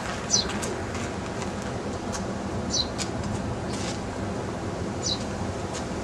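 A small bird calling three times, each a short high note falling in pitch, spaced a couple of seconds apart, over a steady low background hum.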